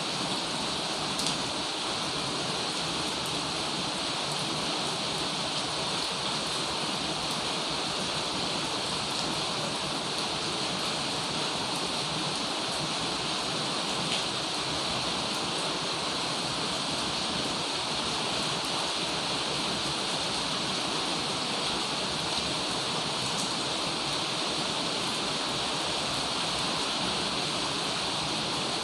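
Heavy rain falling steadily: a dense, even hiss with a few faint sharper drop ticks.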